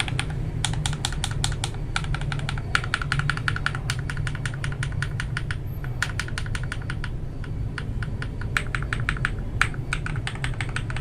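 Fast typing on a mechanical keyboard fitted with lubed Akko Matcha Green switches and Cherry-profile keycaps: rapid runs of key clicks in several bursts with short pauses between them, with a thocky sound.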